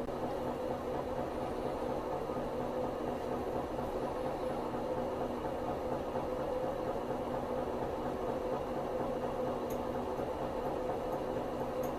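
Magnet-driven rotor motor running at a steady speed, giving an even mechanical hum made of several steady tones, with a couple of faint ticks near the end.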